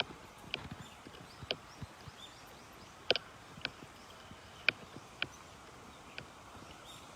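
Footsteps on a concrete path: short, sharp clicks of shoes striking the hard surface, about one every half second to a second, at an uneven walking pace.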